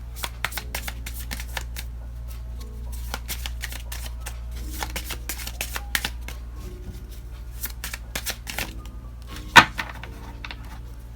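A deck of tarot cards being shuffled by hand: a quick run of soft card clicks and riffles, with one louder snap about nine and a half seconds in. Soft background music runs underneath.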